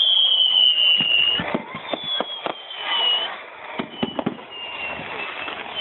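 Fireworks going off: three high whistles, each lasting over a second and falling slightly in pitch, over scattered sharp pops and bangs.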